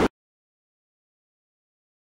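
Dead silence: a steady noise cuts off abruptly right at the start, and nothing follows.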